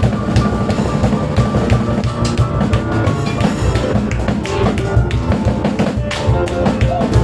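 Live instrumental music: acoustic piano with cajon and drum kit playing a dense, steady beat.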